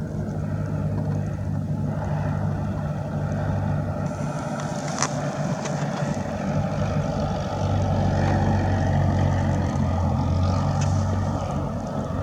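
Piston engine of a propeller aircraft running steadily, a low drone that swells a little louder past the middle and then eases.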